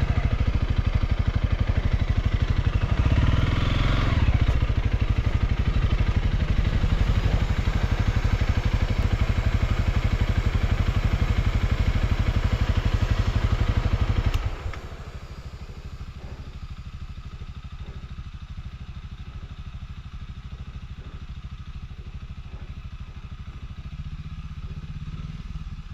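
Motorcycle engine running in first gear, briefly revving up a few seconds in, then dropping suddenly to a much quieter level a little past halfway.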